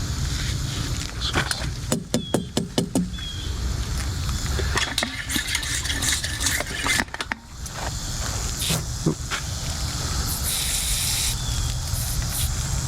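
An engine running steadily, with a run of sharp clicks and rattling knocks about one to three seconds in and a few more knocks later.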